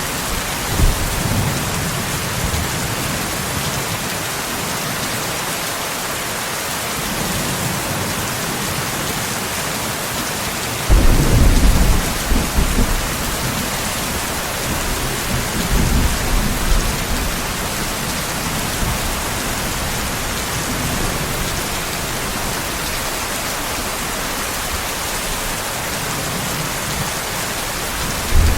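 Steady rain with rolling thunder. A faint rumble comes about a second in, then a loud rumble of thunder starts suddenly about eleven seconds in and rolls on for several seconds, with another starting right at the end.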